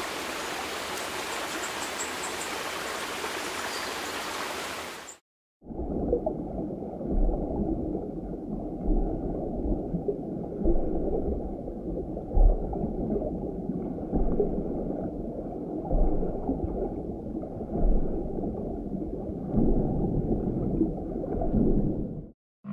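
Steady outdoor hiss of water-side ambience for about five seconds, then, after a brief gap, a muffled underwater recording: dull sloshing water noise with no highs, swelling and thudding irregularly.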